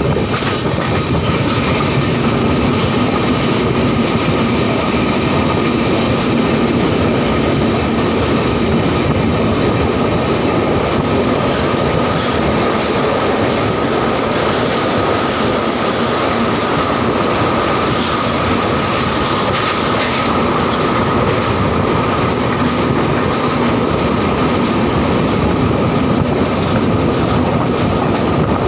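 Passenger train running at speed through a tunnel, heard from an open coach door: a steady, loud rumble of wheels rolling on the rails, with a faint steady whine held above it.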